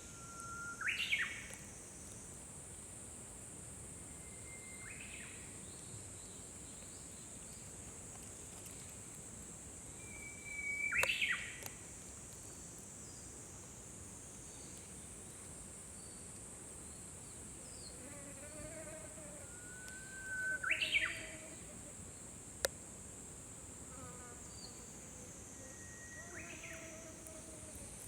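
Japanese bush warbler (uguisu) singing its song five times: each song is a held whistle that breaks into a quick rising flourish, and three of them are loud. A steady high hiss runs underneath, and there is a single sharp click a little after the fourth song.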